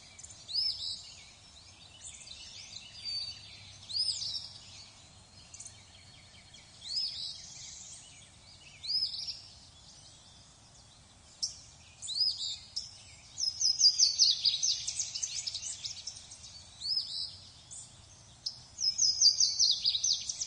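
Birds calling: a short up-curving whistled note repeated every couple of seconds, then two fast runs of rapid chirps, one about 13 seconds in and one near the end, which are the loudest parts. A faint steady hiss of background noise lies underneath.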